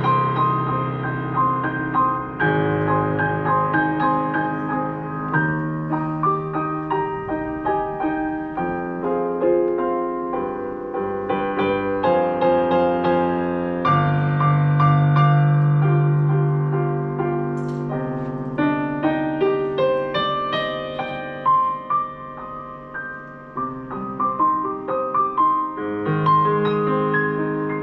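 Solo piano playing a slow, flowing prelude: rippling broken chords in the middle and upper register over held bass notes, growing softer for a few seconds past the middle and then swelling again.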